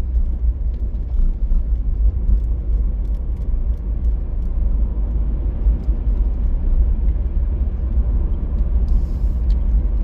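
Car driving along a road: a steady low rumble of tyres and engine, with a few faint light ticks.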